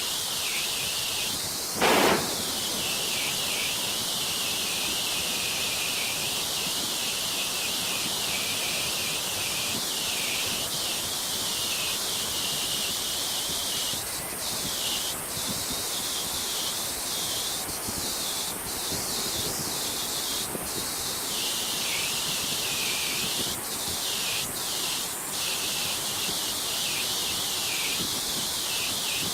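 Steady rushing hiss of a waterfall. A single brief loud knock about two seconds in.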